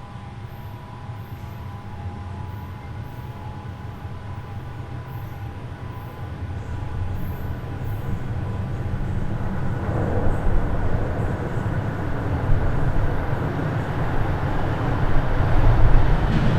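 Bombardier Toronto Rocket subway train running, a steady low rumble with a faint whine at first. The rumble grows steadily louder and fuller, with a jump about ten seconds in.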